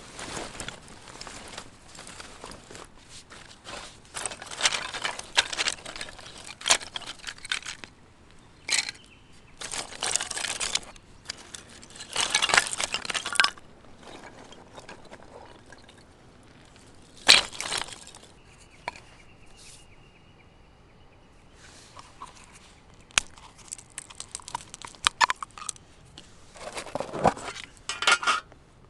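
Handling noises: a series of rustling, crunching and scraping bursts with occasional clinks, and one sharp knock about two-thirds of the way through.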